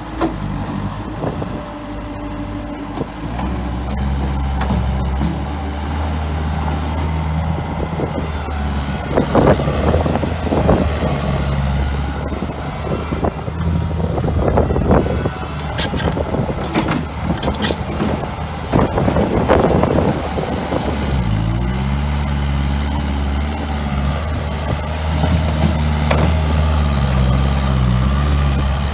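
Bobcat T110 compact track loader's diesel engine running. Rattling and clanking come and go through the middle, and about two-thirds of the way through the engine note dips briefly and then recovers.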